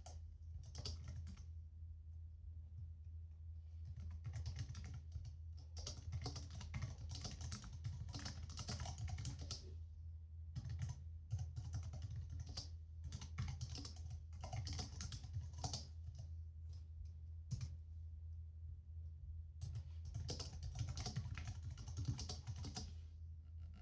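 Typing on a computer keyboard: runs of quick key clicks with brief pauses, about two seconds in, near the middle and again about three quarters of the way through, over a steady low hum.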